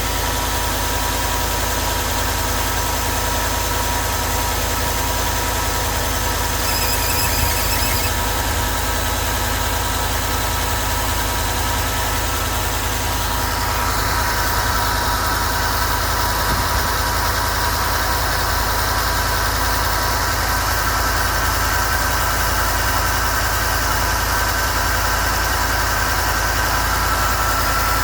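2014 Ford F-150's 5.0 V8 idling on a cold start, with a steady high-pitched squeal over the engine; the squeal shifts and grows stronger about halfway through. The owner does not know its cause.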